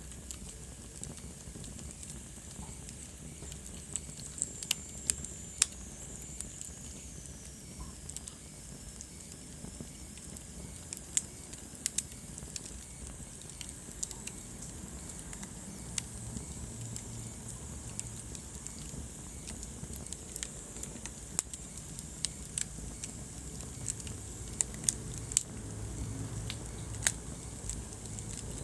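Wood fire burning in a fireplace, crackling with irregular sharp pops over a low steady rumble of the flames. A faint high whistle slowly falls in pitch several seconds in.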